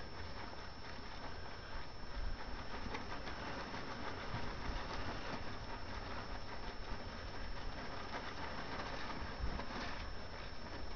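Tarp rustling and flapping in the wind: a steady crackling noise made up of many small crackles, over a low rumble.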